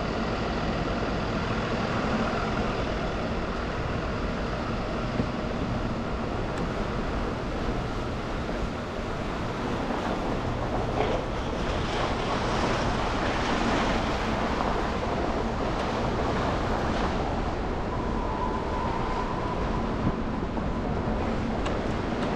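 Car driving through city traffic on snowy streets: a steady hum of engines and tyre noise, with a louder hiss for several seconds in the middle, like tyres on wet, slushy pavement or a passing vehicle.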